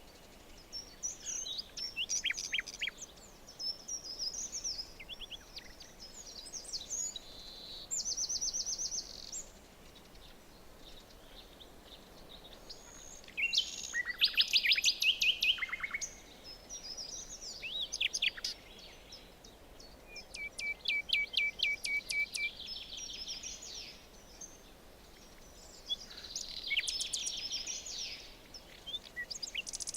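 Several songbirds singing and calling over faint steady forest background noise: quick chirps, short rapid trills, and a loud run of fast repeated notes about halfway through.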